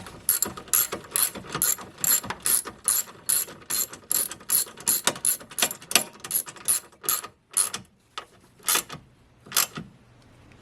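Hand ratchet wrench clicking as a bolt is tightened by hand, about three clicks a second, stopping about three quarters of the way through with two more single clicks after.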